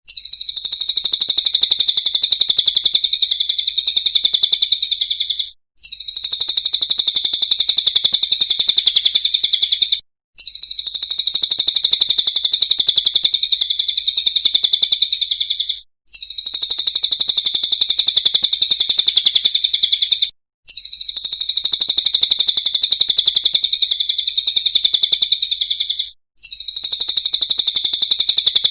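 Small songbird song: rapid, high-pitched chirping trills in long phrases of about five seconds, each broken by a brief pause, about five times over.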